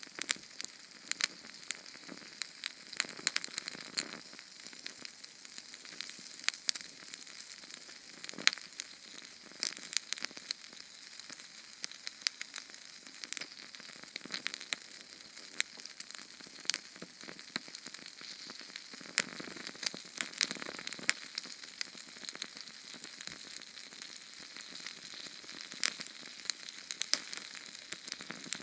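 Small Sterno gel-fuel flame burning: a steady high hiss with frequent, irregular sharp crackles and pops.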